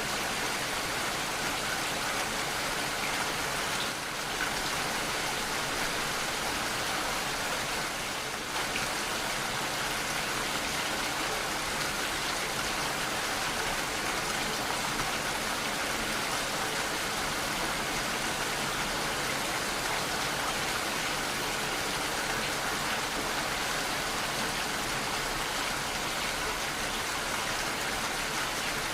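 Steady rainfall, a dense, even hiss of drops with no thunder.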